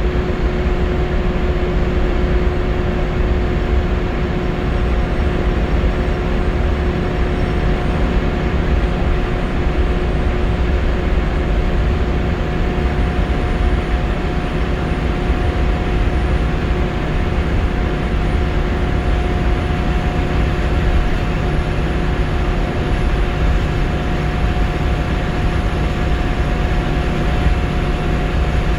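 Interior of a Scania L94UB Wright Solar single-deck bus under way: a steady diesel engine and road rumble with a constant whine running through it. A faint high whine slowly rises in pitch.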